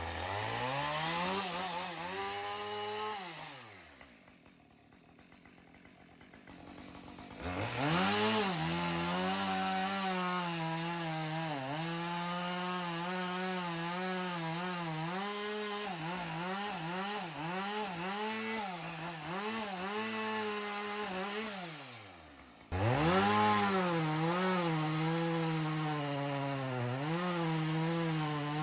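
Two-stroke chainsaw cutting into a fallen tree, revving up and running under load with its pitch dipping and wavering as the chain bites. It falls back to a low idle about four seconds in and again about 22 seconds in, each time revving back up to cut.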